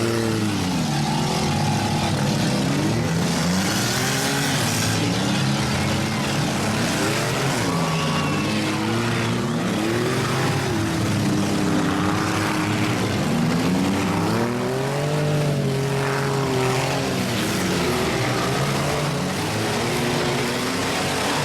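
Several demolition-derby cars' engines revving up and down at once, loud and continuous, their pitches rising and falling over one another.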